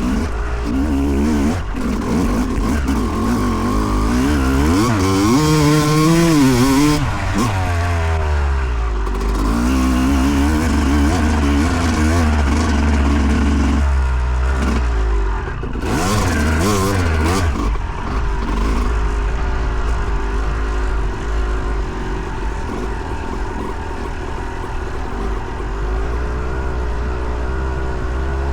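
2008 Yamaha YZ250 single-cylinder two-stroke dirt bike engine being ridden hard, its pitch repeatedly climbing and dropping as the throttle is opened and closed.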